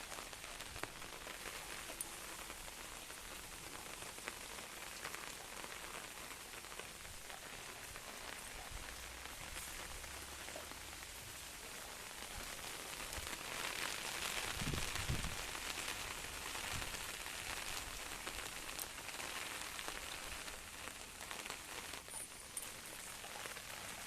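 Heavy rain pouring down steadily, growing louder for a few seconds around the middle.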